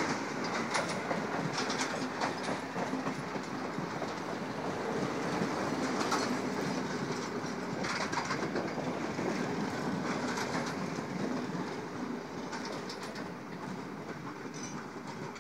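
Passenger coaches of a Sri Lanka Railways train rolling past close by: steady wheel-on-rail rumble with groups of clickety-clack as the wheels cross rail joints every couple of seconds, slowly fading toward the end.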